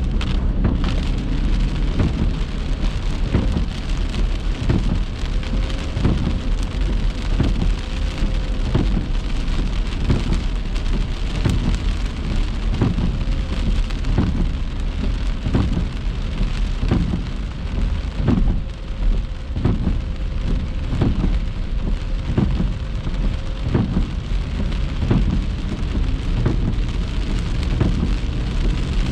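Heavy rain striking a car's body and windscreen, many irregular drop hits over a steady low rumble, with a faint steady hum coming in a few seconds in.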